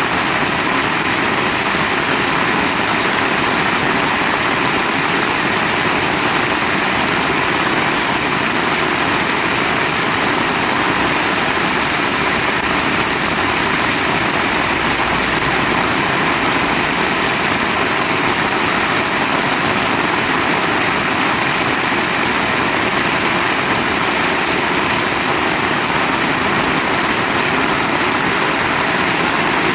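Heavy rain falling, a loud, dense, even hiss that holds steady without a break.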